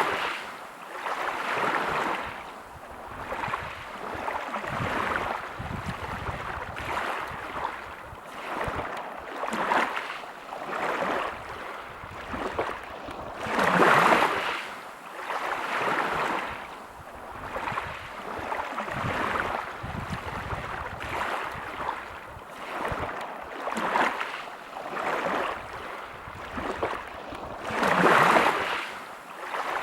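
Sea waves breaking on a pebble beach, the wash rising and falling every few seconds, with bigger breakers at the start, about halfway through and near the end.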